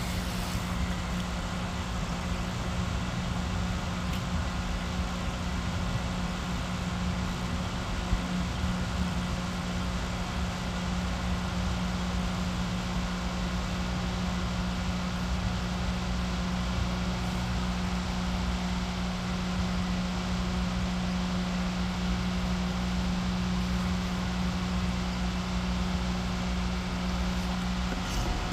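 Electric fan running steadily: a constant low hum under an even rushing whoosh, unchanging throughout.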